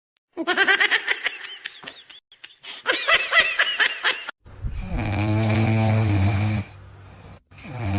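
A few seconds of quick, squeaky, rising-and-falling chirping calls, then loud snoring: two long rasping breaths about a second apart.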